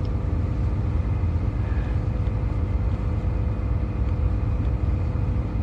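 A truck running, heard from inside its cab: a steady low rumble with a faint even hum.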